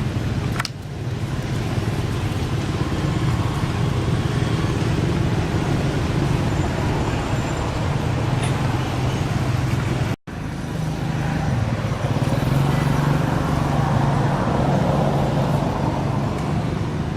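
Steady hum of a motor vehicle's engine running, with traffic noise around it. The sound drops out completely for a moment about ten seconds in.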